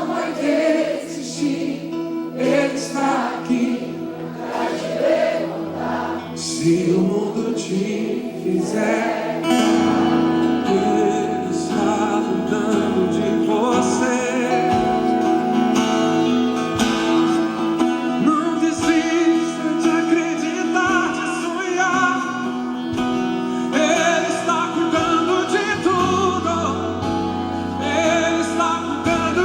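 Gospel worship song: voices singing over instrumental accompaniment. A bass line comes in about six seconds in, and the band fills out after about ten seconds.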